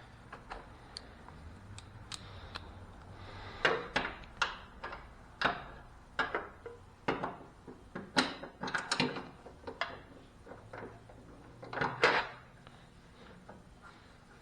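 Irregular metallic clicks and clanks of hand tools being handled: sockets and a socket extension knocking together as they are picked up, fitted and swapped.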